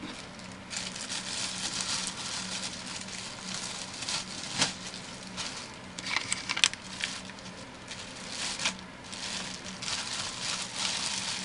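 Plastic wrapping crinkling and rustling as it is handled, with a few sharp clicks and taps along the way.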